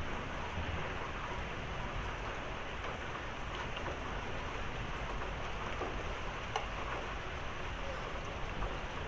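Heavy thunderstorm rain falling steadily, an even hiss of rain on surfaces, with a couple of faint sharp drip ticks.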